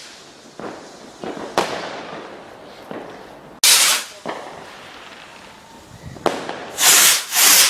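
Fireworks going off: a few sharp bangs and several loud, noisy bursts each lasting under half a second, the loudest about three and a half seconds in and two close together near the end.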